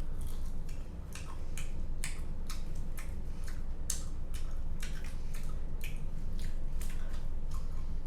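Someone biting into and chewing a crispy fried homemade chicken nugget close to the microphone: a run of short, irregular crunches over a steady low hum.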